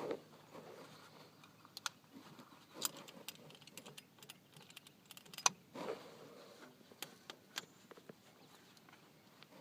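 Irregular light clicks and taps of small hard objects being handled, some in quick clusters, with a soft rustle near the start and another about six seconds in.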